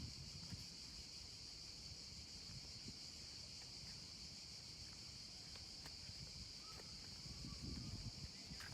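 A steady, faint, high-pitched chorus of insects outdoors, with a few soft clicks and low rumbles underneath.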